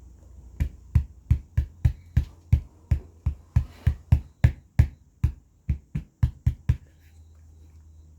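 Speaker cone pushed in by hand again and again, about twenty thumps at roughly three a second that stop near the end.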